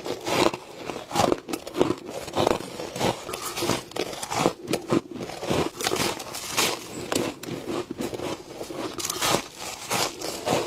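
Close-miked biting and chewing of squeaky freezer frost: a rapid, irregular run of crisp crunches, several a second.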